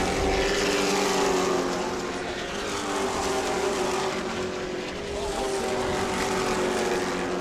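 Several race trucks' engines running at racing speed around a short oval, their engine notes held steady with slight rises and falls in pitch.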